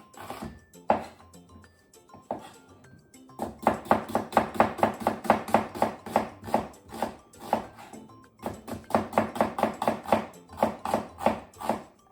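Kitchen knife thinly slicing an onion on a cutting board: quick, even strokes of about five a second in two long runs with a short break between, over background music.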